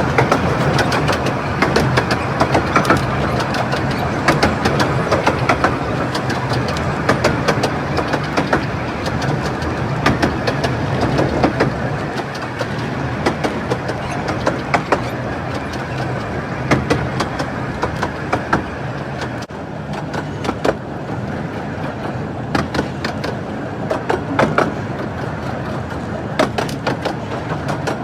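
Miniature 15-inch gauge train running on the Romney, Hythe and Dymchurch Railway: a steady rumble of wheels on rail with many sharp clicks of wheels over the track.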